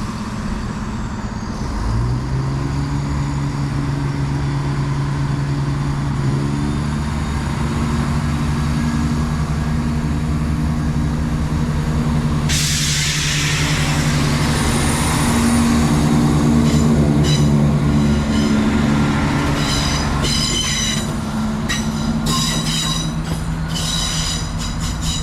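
East Midlands Railway diesel multiple unit pulling away, its engine note stepping up about two seconds in and then running steadily. A sudden hiss comes about halfway through, and the wheels give a run of short, high squeals near the end.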